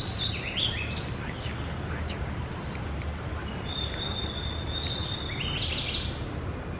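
Birds calling: a few quick falling chirps at the start, a long steady high whistle in the middle, and a short burst of chirps about five seconds in, over a steady low rumble of background noise.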